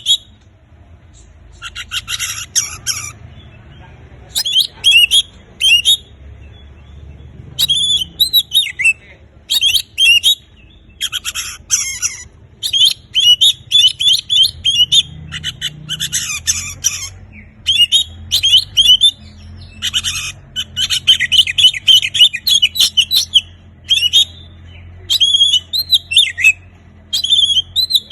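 Oriental magpie-robin (kacer) singing loud, rapid phrases of varied whistles and chirpy, squawky notes. The phrases come in bursts of one to two seconds with short pauses between them.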